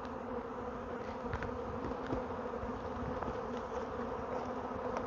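A swarm of honey bees buzzing, a steady dense hum of many bees in the air and around the cluster, with a few faint clicks.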